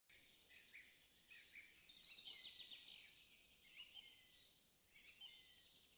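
Faint birdsong over a quiet outdoor hiss: several birds chirping and calling high-pitched, with a rapid trill a little over two seconds in.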